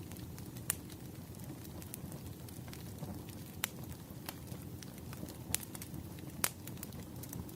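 Fireplace crackling: a steady low rumble of burning wood with scattered sharp pops, a few of them louder.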